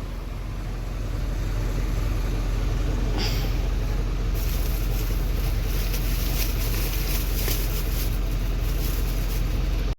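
Ashok Leyland Ecomet 1214 truck's diesel engine running with a steady low hum. A brighter hiss joins in about four seconds in.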